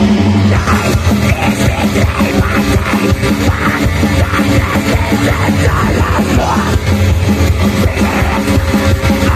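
A metal band playing live: loud, dense electric guitars and bass over a drum kit, running without a break.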